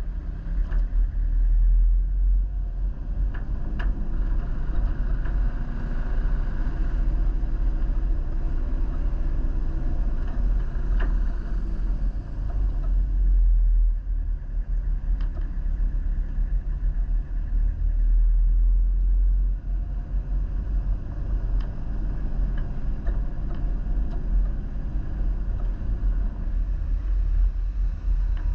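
A motor vehicle on the move: a steady low rumble of engine and road noise with faint engine tones above it, and a few small clicks and knocks scattered through.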